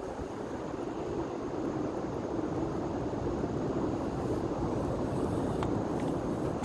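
Large bonfire burning with a steady roar, a couple of faint crackles near the end.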